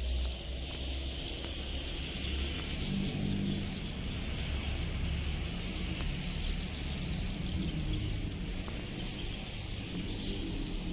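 Swiftlets twittering continuously in dense, high chirps over a low rumble.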